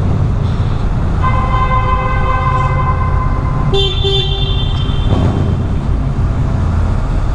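A vehicle horn sounds one long, steady blast of about two and a half seconds, followed at once by a shorter, higher horn note. Underneath is the steady low rumble of a motorcycle ride in traffic.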